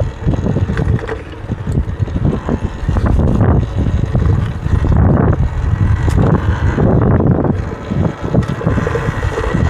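Wind buffeting the microphone on a moving Talaria electric dirt bike, loud and uneven in the low range, with a faint motor whine and tyre noise from riding over dirt.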